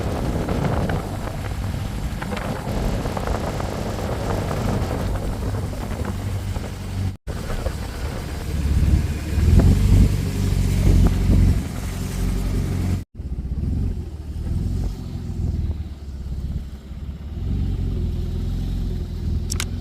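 Motorcycle engine running while riding, with wind noise on the microphone, swelling louder about halfway through. The sound breaks off abruptly twice.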